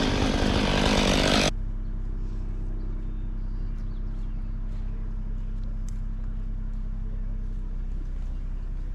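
Stihl 500i two-stroke chainsaw running at full throttle, then let off about a second and a half in and settling into a steady idle.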